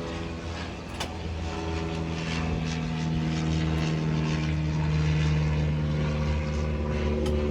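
Tour boat's motor running with a steady drone, getting a little louder about three seconds in.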